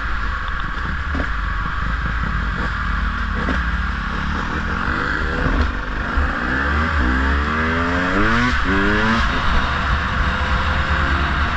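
Dirt bike engine accelerating: its pitch climbs and drops back several times between about five and nine seconds in as it shifts up through the gears. Steady wind rush runs underneath.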